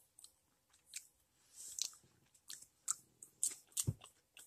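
A person chewing popcorn: a scatter of faint, irregular crunches about every half second.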